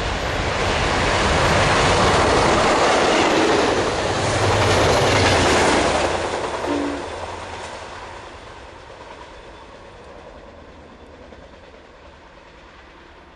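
A train passing through a station at speed: a rush of wheel and rail noise with clickety-clack that builds, stays loud for about six seconds, then fades quickly as it moves away.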